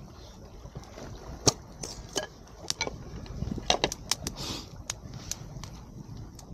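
Wood campfire crackling, with sharp irregular pops and snaps, over a low rumble of wind on the microphone.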